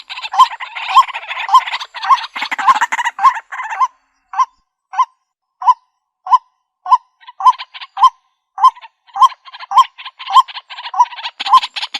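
White-breasted waterhen calling: a loud nasal 'kwak' note repeated about every 0.6 s. A dense, rapid chattering runs over the notes at first, drops away after about a third, and comes back about two-thirds through.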